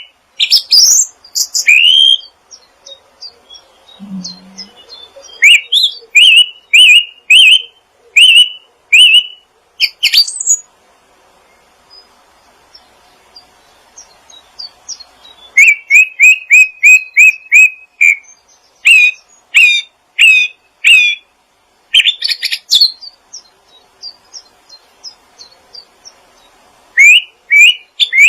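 A songbird chirping in bursts of loud, quick, sharp notes at much the same pitch, about three or four a second, with pauses of a few seconds between bursts.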